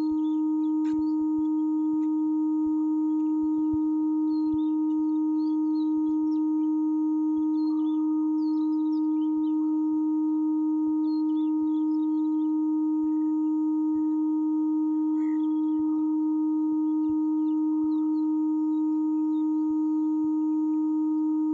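A steady, unwavering hum from a DEMU passenger train: one strong low-pitched tone with fainter higher tones above it, holding constant throughout. Its cause is unexplained.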